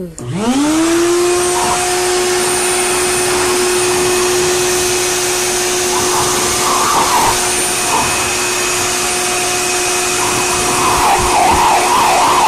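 Electric blow dryer switching on, its motor spinning up within half a second to a steady whine and running on. An uneven rougher noise joins in about six seconds in and again near the end.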